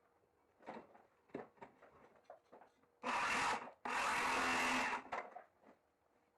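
A power tool run in two short bursts about three seconds in, the second a little longer, between light knocks and clicks of wood being handled.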